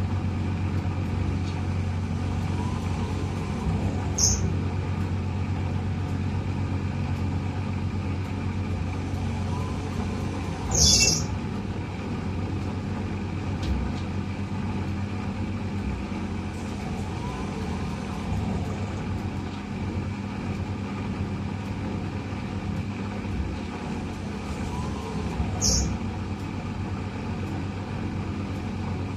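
Eudora 38 Super washing machine running through its cycle: a steady motor hum with faint rising-and-falling swells, broken by three short hisses, the loudest about eleven seconds in.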